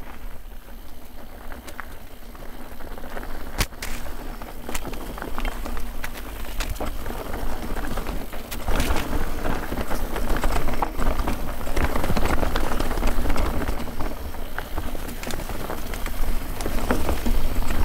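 Guerrilla Gravity The Smash mountain bike descending a rocky trail: tyres crunching over rock and dirt, with frequent sharp clicks and knocks from the bike rattling, and wind rumbling on the microphone. It gets louder about halfway through as the speed picks up.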